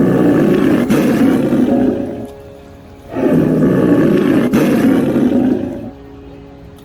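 A big cat roaring twice, each roar rough and about three seconds long, over soft background music.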